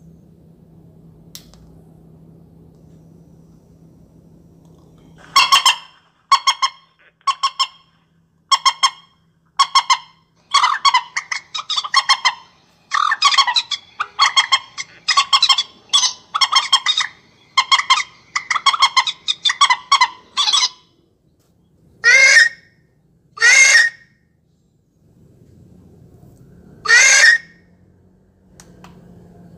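Recorded bird calls played from an electronic bird-caller speaker: a run of short, harsh, honking notes, about one to two a second, then three longer separate calls near the end.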